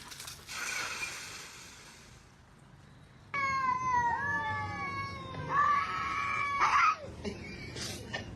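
Domestic cat yowling: two long, drawn-out meows starting about three seconds in, the first falling in pitch, the second louder, after a rushing noise at the start.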